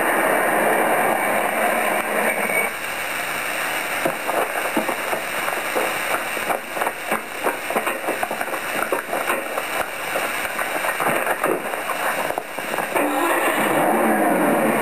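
A car engine running steadily, giving way after about three seconds to a long string of irregular sharp cracks and knocks. An engine rises in pitch again near the end.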